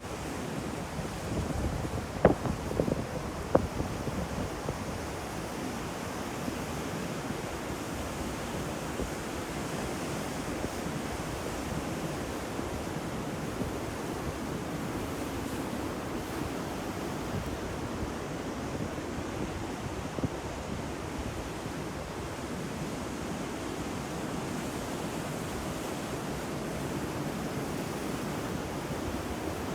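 Ocean surf washing steadily, with a few sharp cracks about two to four seconds in.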